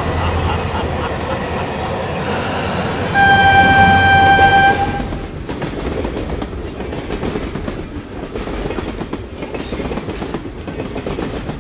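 A freight train rumbling and clattering along the rails, with one long, steady single-note whistle blast lasting about a second and a half, starting about three seconds in.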